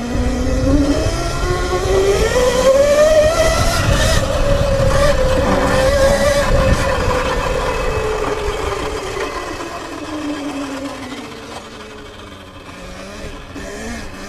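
Sur-Ron electric dirt bike's motor whining as it accelerates, the pitch climbing over the first few seconds, holding, then falling away as the bike slows, with a low rumble of wind and tyres under it.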